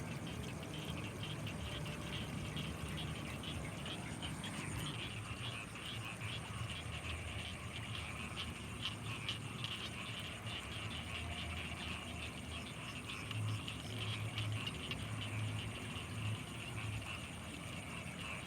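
Night chorus of frogs and insects in rice fields: a dense, rapid pulsing chirr and a steady high-pitched whine, with low croaks coming in and out in the second half.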